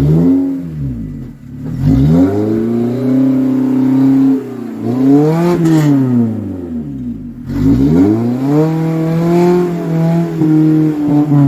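Four-wheel drive engine revved hard in several bursts, its pitch climbing and falling back each time, as the vehicle takes runs at a steep obstacle on the track.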